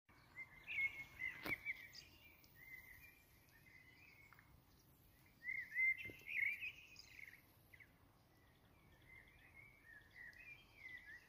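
A small songbird singing in three bouts of quick, high twittering notes with pauses between, over faint outdoor hiss. There is a brief click about a second and a half in and another about six seconds in.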